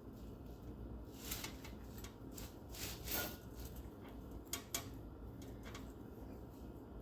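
Metal hand tool prying at an old axle seal in a transaxle housing: a few short scrapes and sharp metallic clicks, with a longer scrape about three seconds in and two sharp clicks between four and five seconds.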